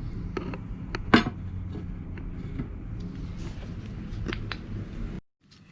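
Scattered clicks and one sharp knock about a second in, over a steady low hum, cutting off suddenly near the end.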